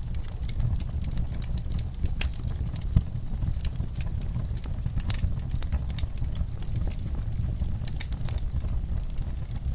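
Wood fire burning in a fireplace: a steady low rumble of flames with irregular crackles and small pops from the burning logs, and one sharper pop about three seconds in.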